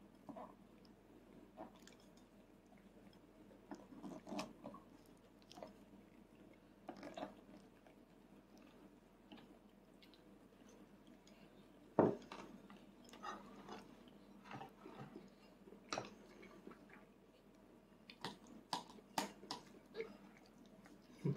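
A toddler chewing an overfull mouthful of hamburg steak, with faint, scattered wet mouth sounds. A few sharp clicks come in between, the loudest about twelve seconds in.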